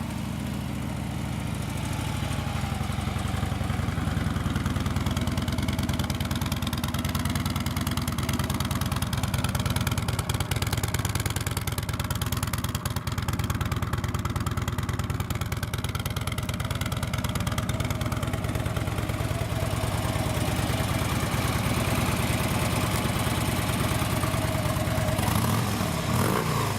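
A 2013 Harley-Davidson Road Glide Custom's 103-cubic-inch fuel-injected Twin Cam V-twin idling steadily just after being started, through its stock exhaust.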